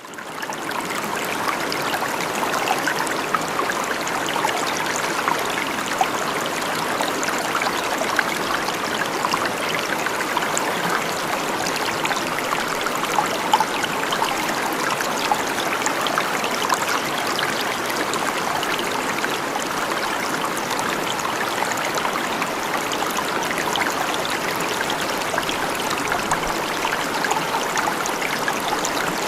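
Steady rushing of running water, like a stream or small waterfall, fading in over the first second and then holding even.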